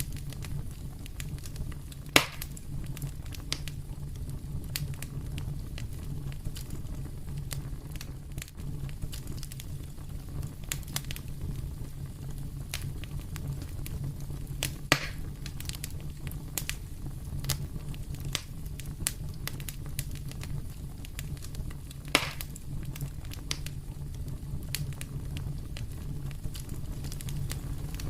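Wood fire in a fireplace crackling, with scattered small snaps and three louder pops over a steady low rumble.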